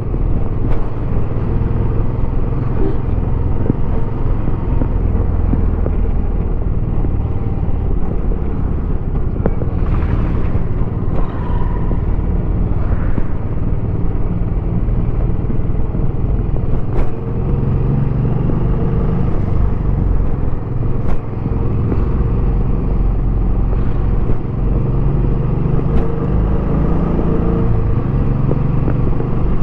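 Royal Enfield Bullet 350X's single-cylinder engine running on the move through its stock exhaust, a steady low exhaust note, with a few brief clicks along the way.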